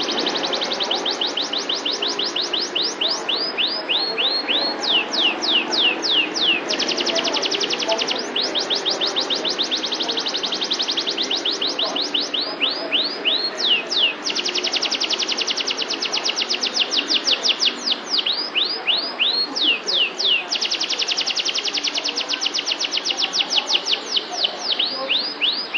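Domestic canary singing nonstop: long, very fast trills of quick downward-sweeping notes, broken every few seconds by slower runs of separate down-slurred notes, then straight back into a rapid trill.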